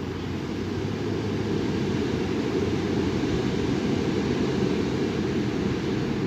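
Strong gusty wind rushing and rumbling on the microphone, a steady low noise that swells slightly about a second and a half in.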